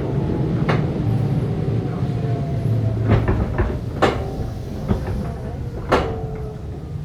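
Running sound of a Keisei 3500 series electric train, heard from inside a motor car as it slows: the traction motor and gear whine falls steadily in pitch. Sharp clacks of the wheels over rail joints come about four times.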